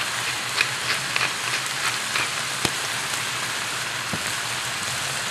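Eel, onion wedges and curry sauce sizzling steadily in a hot wok, with an occasional faint pop.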